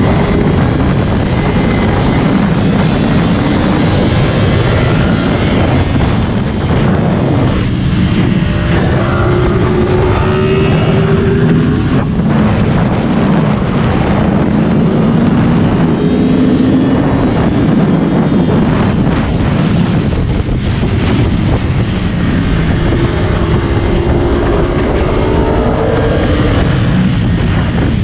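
Yamaha R1's inline-four engine at high revs, its pitch climbing through several long pulls and dropping back between them, under heavy wind rush on the microphone.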